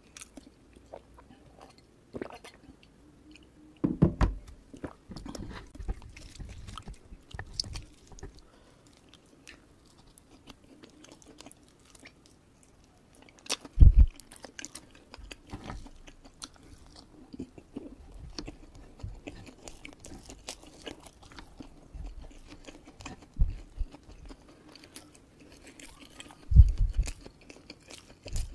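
Close-miked eating: mouth-closed chewing and biting of fried kampung chicken and rice, with a few louder knocks, the loudest about halfway through and near the end.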